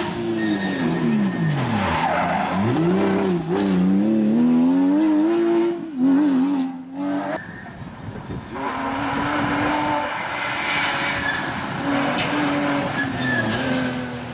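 Porsche rally car engine under hard use: its pitch drops steeply about a second in as the car slows, then climbs again and wavers through the gears. About seven seconds in the sound cuts abruptly to a steadier, held engine note.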